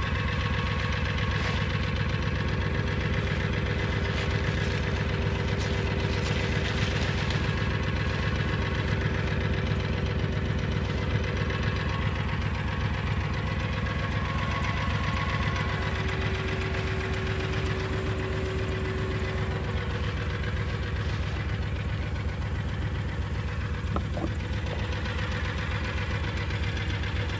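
Engine of a farm vehicle running steadily as it is driven, with a fast, even firing beat and a faint whine that comes and goes.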